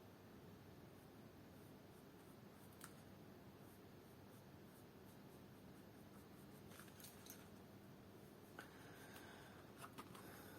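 Near silence: faint room tone with a few soft clicks and light rubbing from small hand work on the shoe, a short cluster of them near the end.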